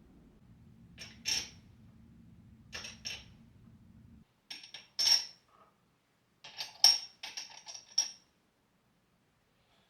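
Small hard items clinking and clicking as they are handled and set down, in short clusters of sharp knocks. The loudest come about seven seconds in. A low hum underneath stops abruptly about four seconds in.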